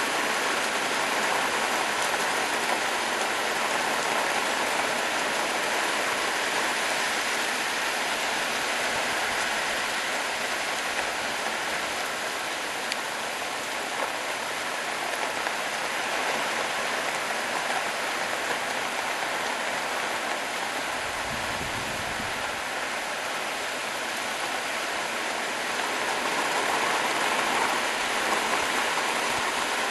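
Heavy rain pouring steadily during a thunderstorm, with a brief low rumble about two-thirds of the way through.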